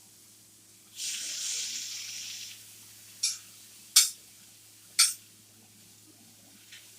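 Food sizzling briefly on a hot indoor griddle for about a second and a half, followed by three sharp taps or clicks a second or less apart.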